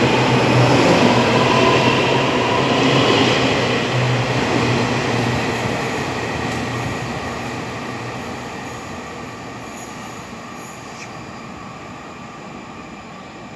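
EMU800 electric multiple unit pulling out of the station: steady running noise with a whine over a low hum, fading gradually as the train moves away.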